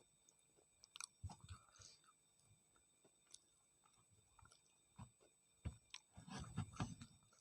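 Close-miked chewing and wet mouth sounds of someone eating battered, soft-fried tempeh (tempe mendoan). They come in scattered bursts of soft clicks and low thuds, busiest about a second in and again near the end.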